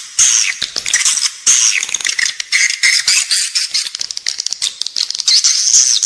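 Edible-nest swiftlet calls: a dense, continuous rattling chatter of rapid clicks and high twittering chirps, with no low sounds. This is the indoor lure call played inside swiftlet nesting buildings.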